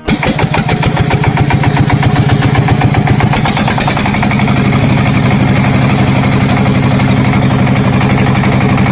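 Engine running steadily at idle, a rapid even firing beat that cuts in and out abruptly.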